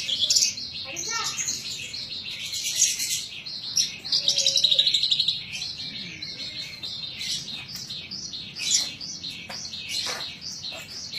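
Horsfield's bush lark (branjangan) in continuous full song: a rapid, unbroken run of short high chirps and trills, with a louder buzzy trill about four seconds in.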